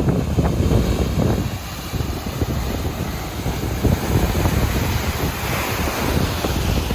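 Strong wind buffeting the microphone over the noise of ocean surf, with a wave's hiss swelling near the end.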